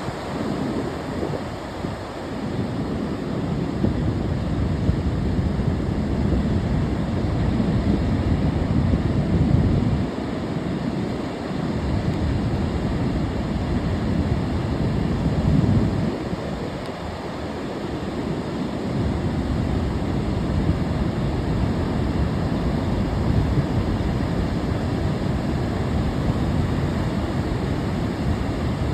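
Sea waves breaking and washing onto the shore: a continuous low rush that swells and eases. Wind rumbles on the microphone.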